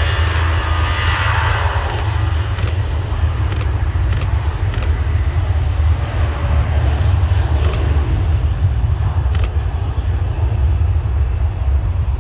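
Boeing 737 jet engines at takeoff power: a high whine that falls in pitch and fades over the first two seconds as the jet passes, over a steady deep rumble that carries on after it. A few faint short clicks come in the first half.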